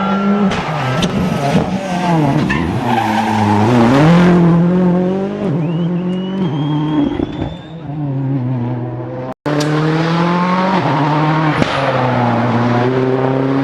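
Rally car engine revving hard, its pitch climbing and dropping in steps through gear changes as it accelerates and slows, with tyres squealing on the stage. The sound cuts out for an instant about nine seconds in, then the revving through the gears carries on.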